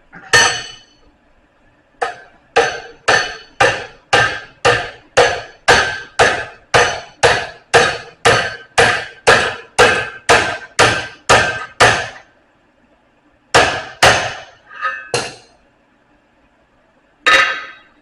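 Blacksmith's hammer striking metal on an anvil: a single blow, then a steady run of about twenty blows at roughly two a second, a few scattered blows, and one last blow near the end, each ringing briefly.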